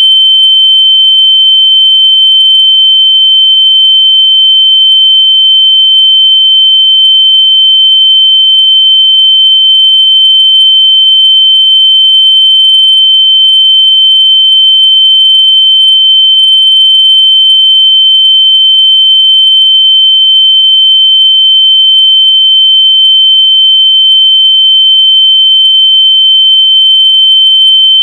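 A loud, steady, high-pitched electronic sine tone, held without a break at one pitch, with a faint higher tone flickering above it. It is played through earbuds so that lost AirPods can be found by ear.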